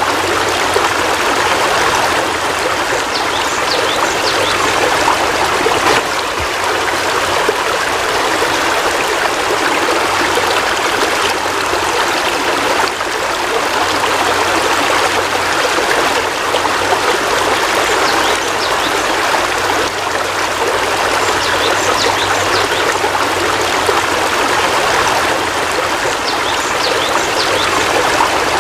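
Heavy rain falling steadily: an even, unbroken hiss of water.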